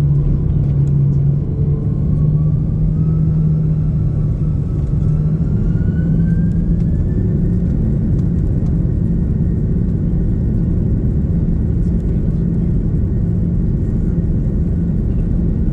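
The A330-300's GE CF6-80 turbofan engines heard from inside the cabin, spooling up: a whine rises over about five seconds and then holds steady above a constant low rumble.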